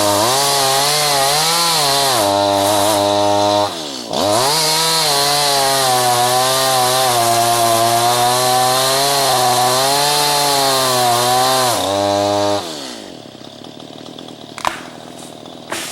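Two-stroke chainsaw running at full throttle through green ash, its engine pitch wavering under load. Its pitch dips and recovers about four seconds in. Near the end the engine drops to idle, and a couple of sharp knocks follow.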